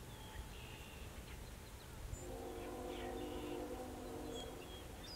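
Outdoor waterside ambience with a few short, high small-bird chirps. From about two seconds in, a steady droning hum from an unseen source runs for a couple of seconds and then stops.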